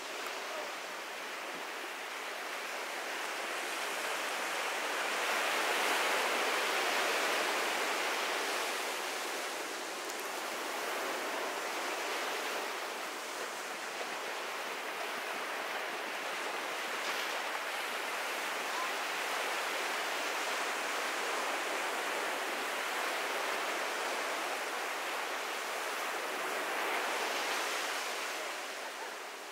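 Ocean surf washing onto a beach: a steady rushing hiss that swells louder a few seconds in and again near the end as waves break.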